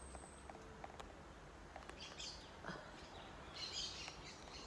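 Faint birds chirping in the background, with short chirps about two seconds in and again near four seconds, over a low steady hum.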